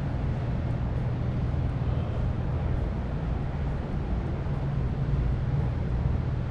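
A steady low rumble with no clear events.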